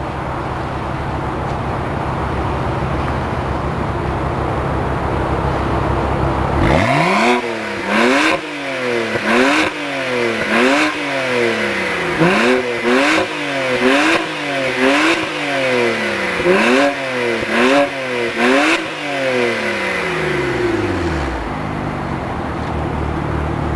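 BMW 135i's turbocharged straight-six idling, then revved in a quick series of about a dozen throttle blips, roughly one a second, each rising and falling in pitch, before settling back to idle near the end.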